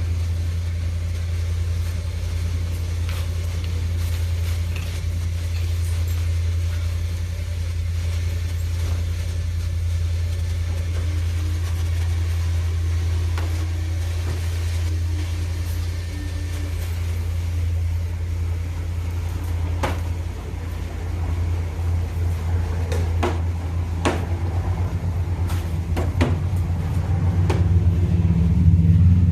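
A steady low mechanical hum, with scattered sharp clicks and knocks in the second half, growing louder near the end.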